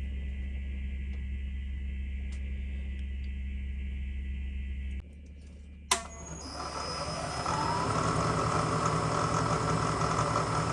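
A machine tool running with a steady hum. About five seconds in, the sound cuts to a quieter stretch with one sharp click, then a machine spins up, its whine rising in pitch, and runs on louder.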